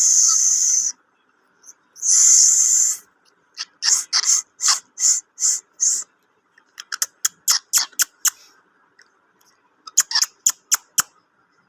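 Pet parrot giving two long, harsh hisses, then a series of short, sharp clicks and chirps at about three a second, in a few runs with short pauses between.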